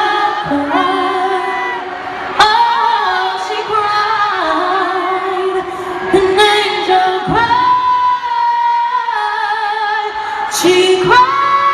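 Live female lead vocal singing a cappella over layered vocal harmonies, long held notes sliding from one pitch to the next, heard through the reverberation of an arena.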